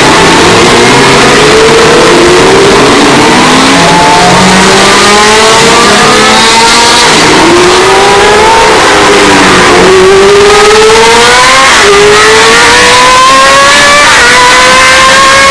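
Historic Formula 1 race car engine accelerating hard through the gears, its pitch climbing and dropping back at each upshift several times over. The recording is boosted until it clips, so the sound is heavily distorted and stays at full loudness.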